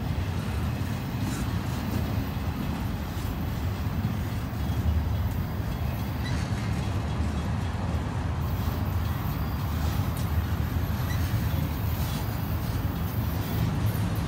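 Double-stack container well cars of a Union Pacific intermodal train rolling past close by: a steady low rumble of wheels on rail with faint clicks and rattles.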